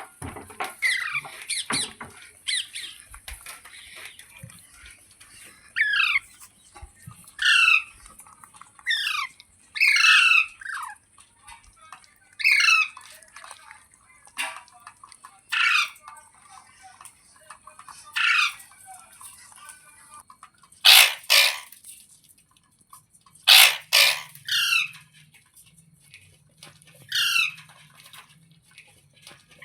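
Rose-ringed (ringneck) parakeet calling again and again, a short call every one to three seconds, each made of quick pitch sweeps; two louder, rougher screeches come a little after the middle.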